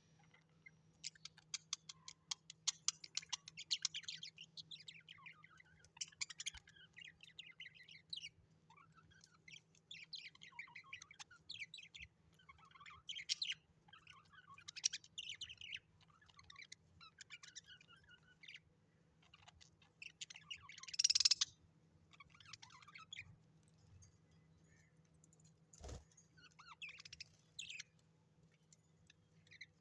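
Small birds chirping and twittering in quick, chattering phrases, with a louder call about two-thirds of the way through and a single sharp click near the end. A faint steady hum runs underneath.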